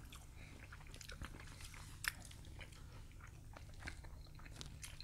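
Faint close-miked eating sounds of people chewing food taken with chopsticks, with scattered small mouth clicks and one sharper click about two seconds in, over a low steady hum.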